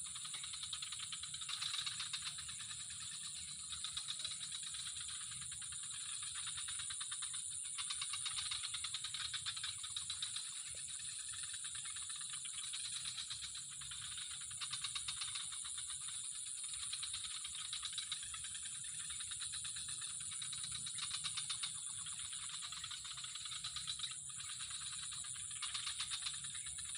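A steady chorus of calling insects: a continuous high buzz with fast pulsing trills that swell and fade every few seconds.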